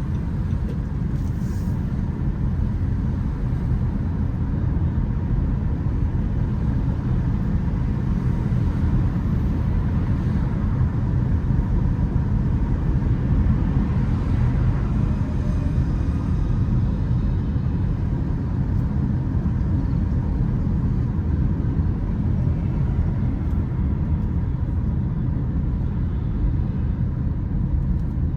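Steady low rumble of road vehicle noise, even throughout, with a slight swell in the middle.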